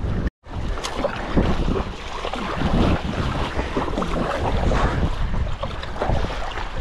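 Strong wind rumbling on the microphone, with choppy lake waves splashing around a paddleboard. The sound cuts out completely for a moment just after the start.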